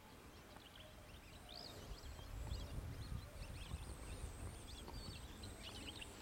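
Faint outdoor ambience of small birds chirping in scattered short calls. A low rumble on the microphone comes in about two seconds in.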